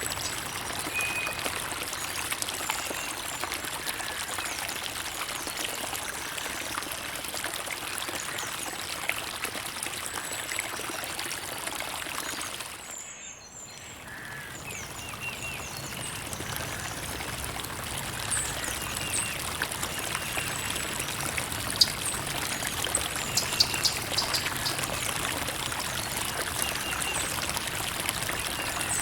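Creek water trickling and flowing in a steady rush, with scattered faint bird calls. The water briefly dips in level about halfway through, then comes back.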